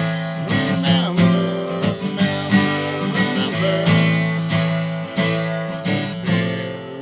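Acoustic guitar strummed in steady chords, with a single sung word, "Remember", about a second in.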